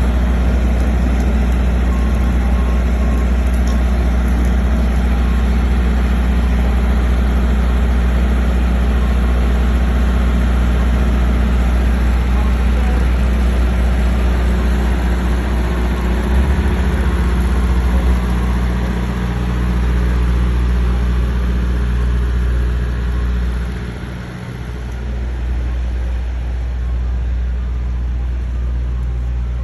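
Soft-serve ice cream truck's engine idling steadily, a low hum that eases off a little about two-thirds of the way through.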